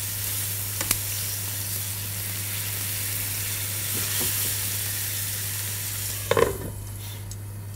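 Chicken breast pieces sizzling in a little oil in a non-stick frying pan as a spatula stirs them. There is a brief knock about six seconds in, after which the sizzle is quieter.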